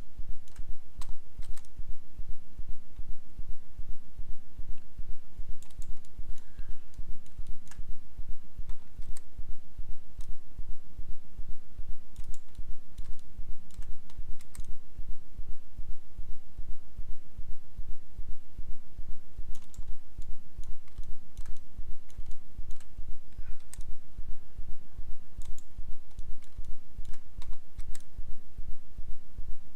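Scattered computer mouse and keyboard clicks over a steady low pulsing hum that beats about three times a second.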